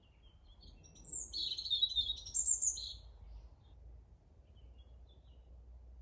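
A songbird singing a short burst of high chirping notes about a second in, lasting about two seconds, with a few faint notes after, over a low steady rumble.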